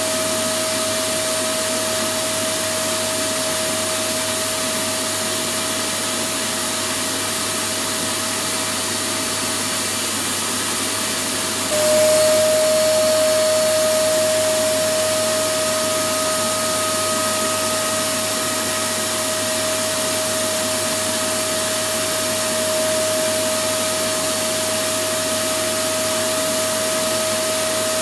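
Electric vacuum cleaner running steadily, a high motor whine over a constant rush of air. About twelve seconds in it jumps a little louder and the whine drops slightly in pitch, then settles back.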